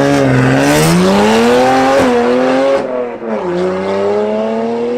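BMW 135i's twin-turbo N54 3.0-litre straight-six on a straight-through, straight-piped exhaust, accelerating hard at full throttle. The engine note climbs steadily, drops at an upshift about three seconds in, then climbs again.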